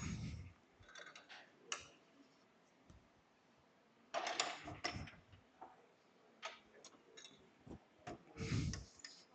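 Irregular light clicks and knocks, with a few duller thumps, of tools and the workpiece being handled at a wood lathe. No motor or cutting sound: the lathe is not running.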